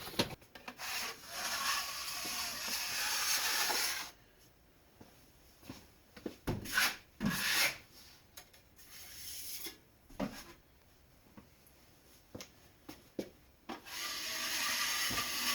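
Drywall knife scraping joint compound: two long scraping strokes, one near the start and one near the end, with short scrapes and knocks in between.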